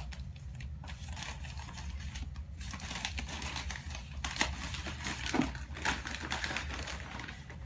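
Paper wrapping crinkling and rustling as a small potted plant is unwrapped by hand, in irregular crackles and clicks, over a steady low hum.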